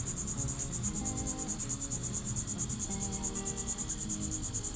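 Crickets chirping: a high-pitched, fast, even pulsing at about eight pulses a second.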